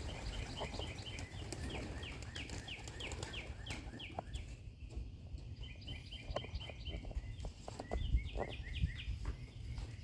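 A small songbird singing in quick runs of short, falling high chirps, about five a second, three runs with short pauses between them. A low wind rumble on the microphone runs underneath.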